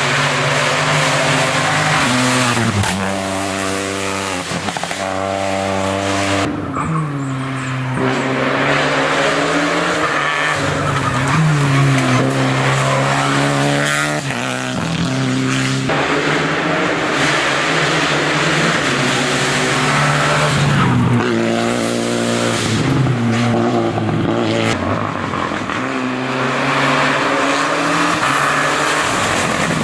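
Rally car engine revving hard and changing gear: the pitch climbs, drops at each shift or lift-off, and climbs again several times.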